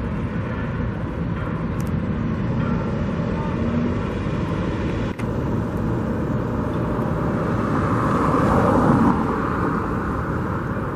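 Steady road traffic noise, with one vehicle passing close and getting louder about eight seconds in before fading back.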